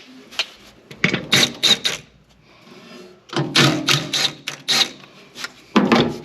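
Metal parts and hand tools clanking and rattling in quick runs of sharp knocks, from working loose an engine's intake plumbing.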